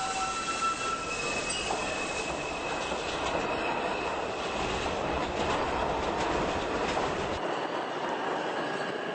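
New York City Subway train running on the rails, with high wheel squeal in the first few seconds over the steady running noise. The low rumble drops away near the end.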